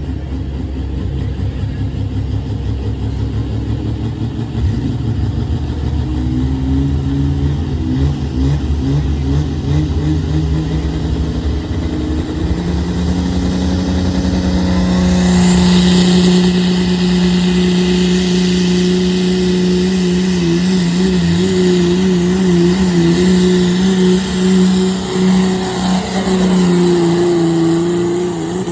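A competition pulling vehicle's engine at full throttle down the track, dragging the weight sled. It runs low at first, climbs in pitch over several seconds, then holds a high, steady howl that wavers a few times late in the pull.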